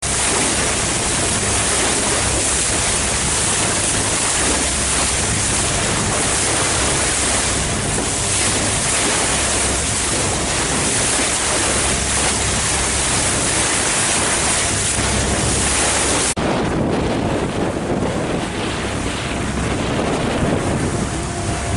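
Wind buffeting the microphone on the harbour water, a steady loud rushing hiss. About sixteen seconds in it changes abruptly to a duller, lower rush.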